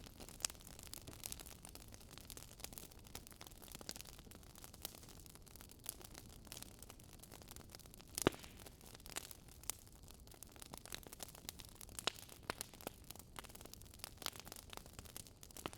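Wood fire crackling: irregular pops and snaps over a soft steady hiss, with one louder pop about eight seconds in.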